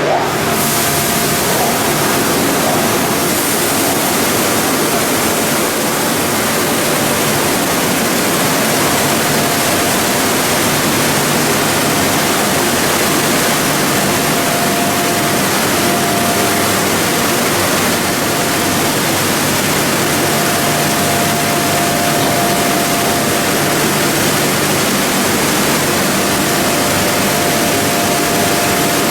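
Machinery of a PE and calcium carbonate pelletizing line running, a loud steady rushing noise with a faint high whine that comes and goes.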